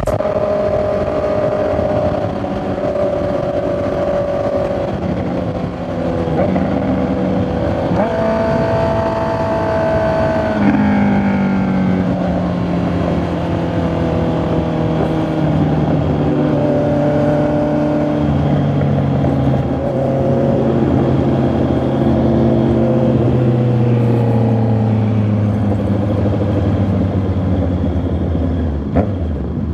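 Honda CB650R inline-four engine and exhaust under way, the engine note rising and breaking off repeatedly as it pulls through the gears. In the second half, a long, slow fall in pitch as the revs come down.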